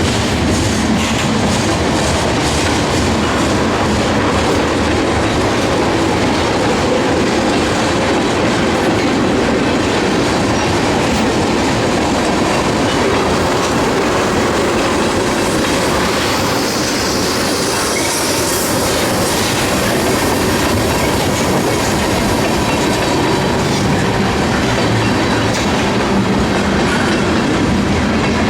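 CSX freight train cars rolling past close by, a steady loud rumble with the clatter of wheels on rail joints. A higher hiss from the wheels swells briefly a little past the middle.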